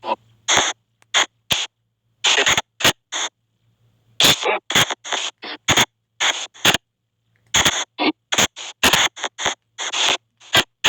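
Spirit-box app output (SP White Noise Box) through a phone speaker: choppy, stop-start bursts of static and garbled radio-like fragments, each a fraction of a second long, with short silent gaps between them.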